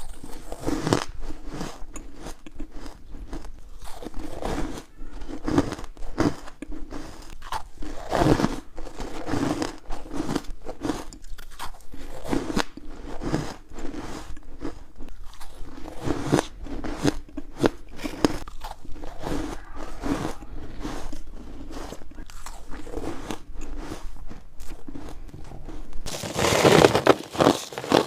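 Ice being bitten and chewed up close: continuous crunching and crackling as the pieces are ground between the teeth, with a louder crunch of a fresh bite about two seconds before the end.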